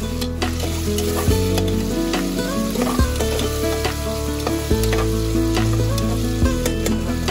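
Green chillies and onions sizzling in hot oil in an aluminium pressure cooker while a metal slotted spoon stirs them, with repeated clinks and scrapes of the spoon against the pot.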